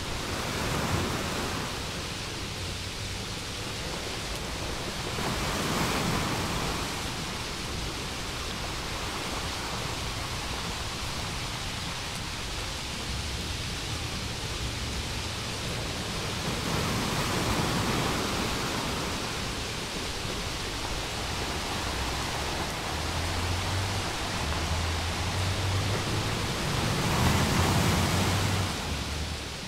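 Steady rushing hiss of rain, swelling louder four times.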